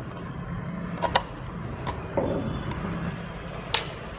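Laptop parts and tools being handled during disassembly: a few sharp clicks and taps, two close pairs and then one more near the end, over a steady low hum.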